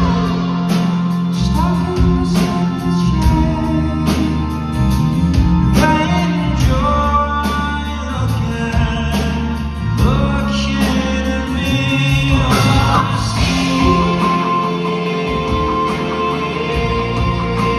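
Rock band music: singing over guitars, bass and a steady drum beat.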